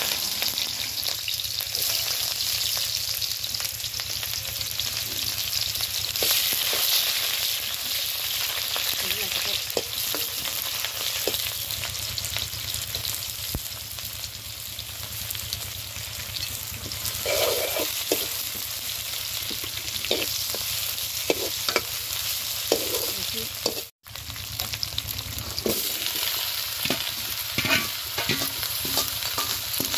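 Shallots and ginger-garlic paste sizzling in hot oil in an iron kadai, a steady frying hiss. In the second half a metal ladle scrapes and clinks against the pan, and near the end chunks of purple yam and potato tumble in. The sound cuts out briefly about two-thirds of the way through.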